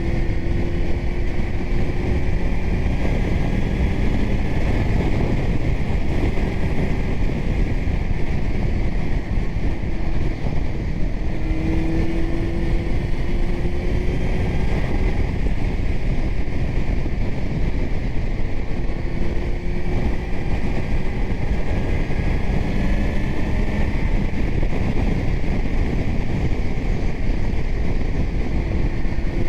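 Kawasaki Z900's inline-four engine through a titanium Arrow exhaust, under way and pulling up through the revs several times, with wind rushing over the microphone.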